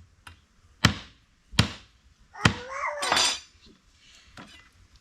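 Three sharp knocks or strikes about three-quarters of a second apart, each ringing briefly, followed by a short cry that falls in pitch and a brief rattle.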